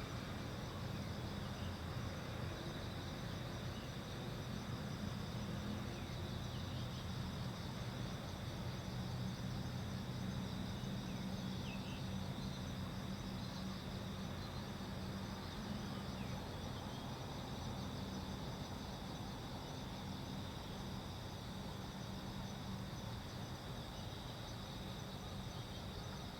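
Steady night ambience: insects chirping continuously in a high, thin band over a steady low hum.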